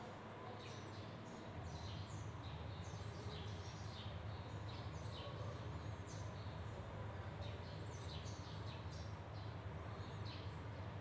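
Small birds chirping in short, irregular calls over a steady low hum that gets louder about a second and a half in.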